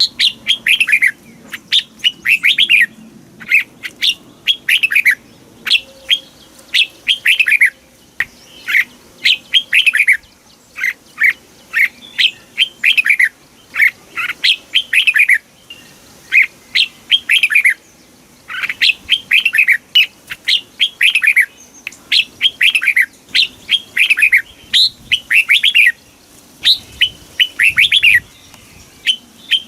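Red-whiskered bulbul singing: a continuous run of short, bright phrases, each a quick cluster of falling whistled notes, repeated with brief gaps.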